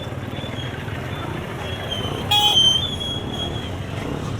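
Busy town street traffic and background voices, with one short vehicle horn toot a little over two seconds in, the loudest sound.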